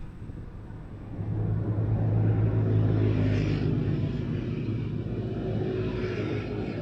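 A motor vehicle's engine running nearby, a low steady hum that swells about a second in and holds, easing slightly near the end.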